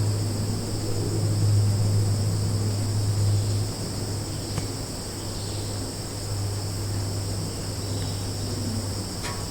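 Summer forest ambience: a steady high-pitched chorus of crickets and other insects over a low steady drone that drops in level about three and a half seconds in, with a few faint short chirps.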